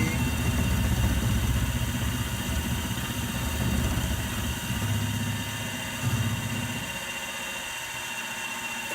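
Milling machine running, with a steady high whine and a low rumble that starts at once and eases off about seven seconds in.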